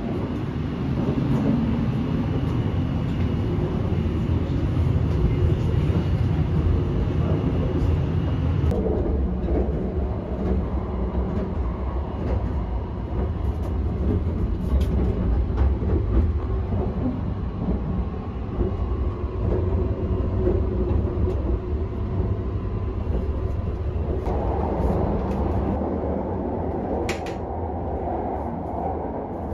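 Running noise of the Sunrise Izumo 285-series sleeper train heard from inside the car: a steady low rumble of the moving train that changes character about nine seconds in and again near the end, with one short click shortly before the end.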